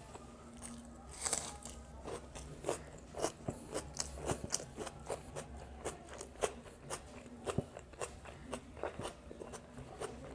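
Close-miked eating of chicken biryani: chewing with crunches and wet mouth clicks at an irregular pace, with one louder crunch about a second in.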